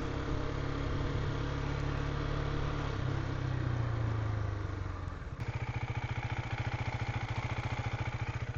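Husqvarna Svartpilen 401's single-cylinder engine running as the bike slows. From about five seconds in it settles to a steady idle with even pulses.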